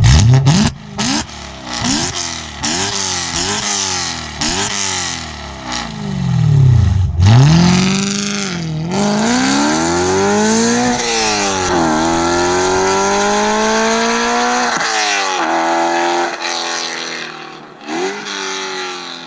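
BMW E92 M3's V8 running through an Armytrix valved exhaust with the valves open, very loud. The revs climb in several quick steps in the first few seconds like upshifts under acceleration, drop, climb again and hold, then fall away near the end.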